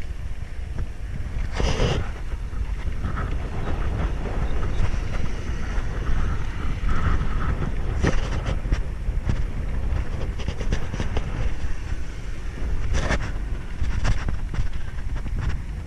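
Wind buffeting the microphone in a steady low rumble, with the rolling and rattling of a bicycle ridden over rough, dusty ground and a few brief louder clatters.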